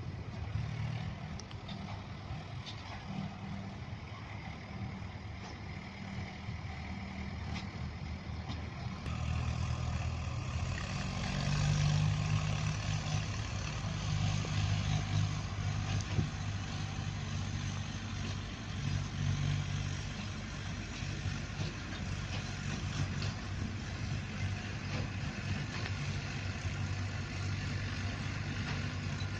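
Tractor engine running steadily, getting louder about ten seconds in and staying so.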